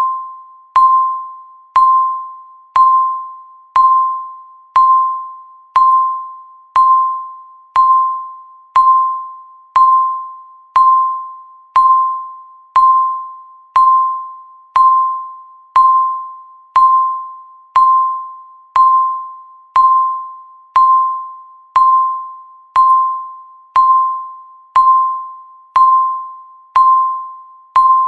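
Countdown timer beeping once a second: each beep is a short, clear, bell-like tone with a sharp start that fades away quickly before the next, ticking off the seconds of the countdown.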